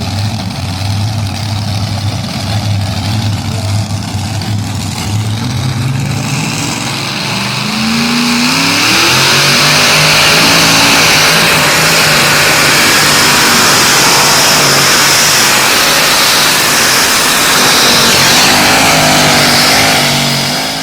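Pulling tractor's engine idling, then revving up about a third of the way in and running loud at high revs for the rest.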